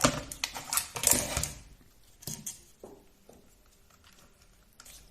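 Small plastic and metal RC car parts being handled, with rustling and clicking for about the first second and a half. Then a few scattered clicks follow.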